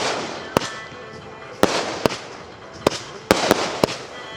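Firecrackers going off: about eight sharp bangs at uneven intervals, several trailing off in a short decaying tail.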